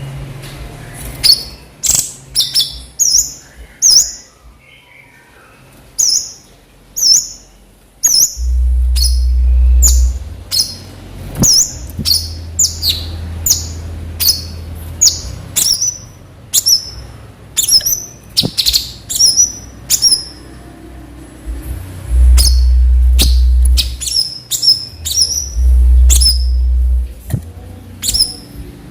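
Cucak cungkok giving loud, sharp, high chirps in quick runs, each note a fast downward flick: the bird's typical 'nembak' shooting calls. A low rumble comes and goes behind them several times.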